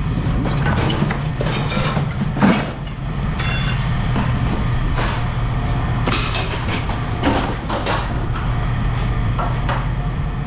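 Pieces of scrap metal clanking and knocking as they are handled and tossed, irregular sharp strikes over a steady low engine hum. The loudest clank comes about two and a half seconds in.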